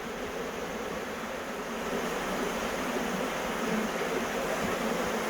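A swarm of honey bees buzzing all around, a dense steady hum.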